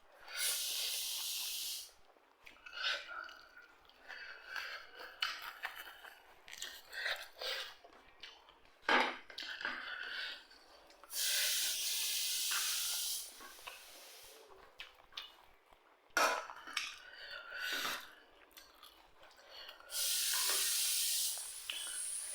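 Close-up eating sounds: chewing, small clicks of utensils on a plate, and three steady rushing noises of about two seconds each, as dry beef, mustard leaf and salad are eaten.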